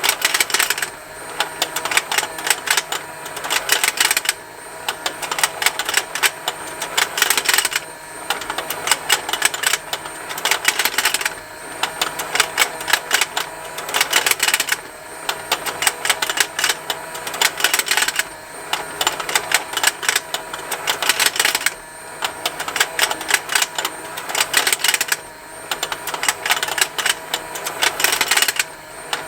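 Battery-powered fishing game toy running: a rapid, continuous ticking of its small motor and plastic gears, over a faint steady whine. Louder bursts of plastic snapping and clicking come round about every three and a half seconds as the pond rotates.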